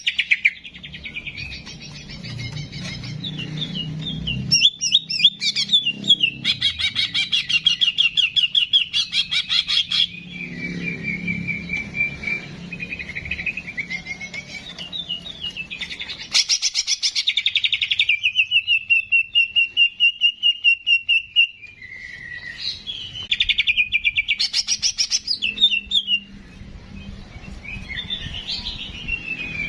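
Songbird singing a varied song of fast rattling trills and sharp chirps, with a long, level whistle about two-thirds of the way through.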